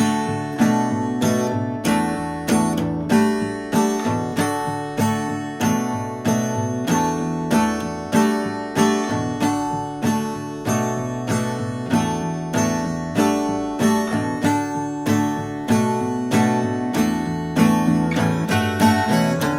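Solo acoustic guitar in drop-D tuning (D A D G B E) with a capo on the second fret, played in a steady, even rhythm of chords as an instrumental break, with no singing.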